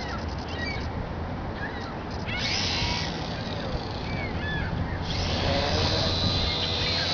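A micro airboat's small motor and propeller start a steady high-pitched whine about five seconds in, with birds chirping over it throughout.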